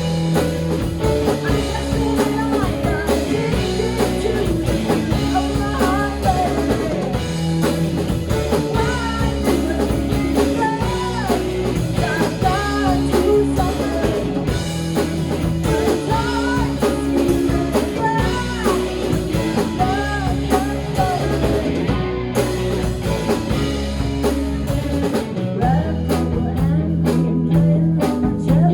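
Live rock band playing: drums and bass under a bending melodic lead line that repeats every couple of seconds. Near the end the arrangement shifts to a held low bass note with sharper drum hits.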